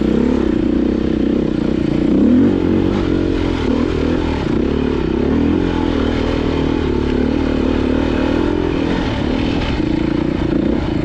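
Off-road motorcycle engine running while riding a trail, its pitch rising and falling as the throttle is worked, with some rattle from the bike.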